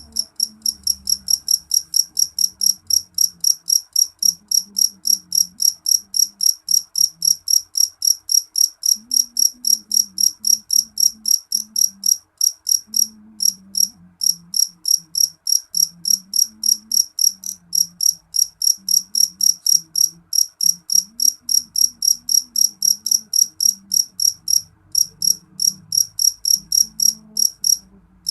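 A cricket chirping, a steady train of short high-pitched pulses about three times a second, with a brief break about halfway through.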